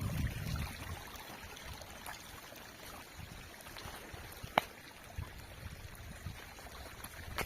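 Light rain falling with water trickling, a soft steady patter, broken by one sharp click about halfway through.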